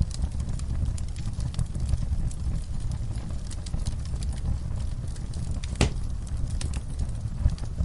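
Wood fire in a fireplace crackling, with scattered sharp pops over a steady low rumble of flames. One louder pop comes about three-quarters of the way through.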